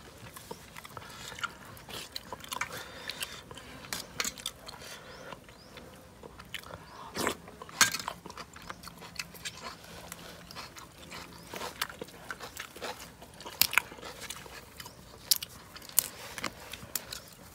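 Close chewing of a crunchy pounded lotus-stem salad: irregular crisp crunches and mouth clicks, with one louder crunch about eight seconds in.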